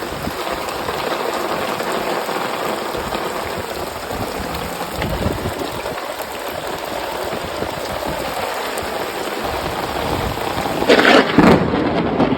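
Heavy rain pouring down steadily, with a loud clap of thunder about eleven seconds in.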